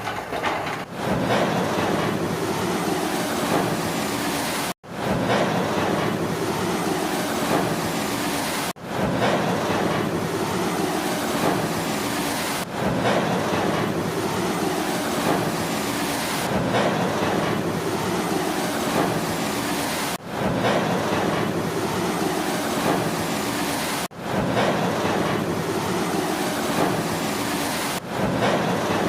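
Heavy construction machinery running with a steady rumbling engine noise. It is cut into near-identical stretches of about four seconds, with a sudden break between each.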